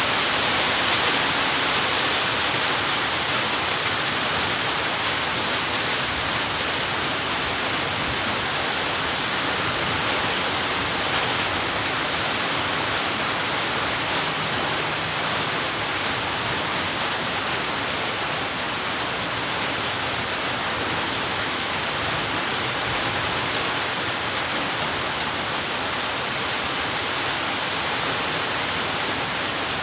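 Heavy rain falling steadily: a dense, even hiss without changes.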